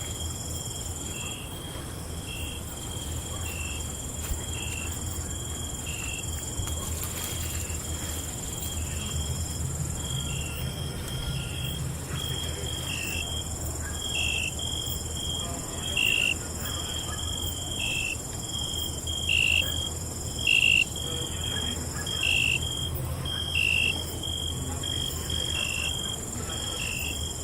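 Night chorus of crickets: steady high trilling with short chirps repeating about once a second, the chirps louder in the second half, over a low steady rumble.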